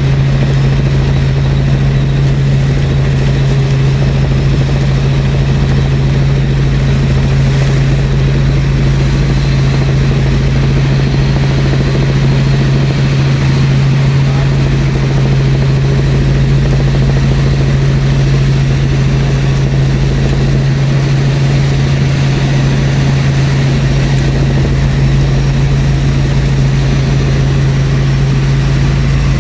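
Helicopter in flight, heard from inside the cabin: a steady, loud engine and rotor drone with a strong constant low hum that does not change in pitch.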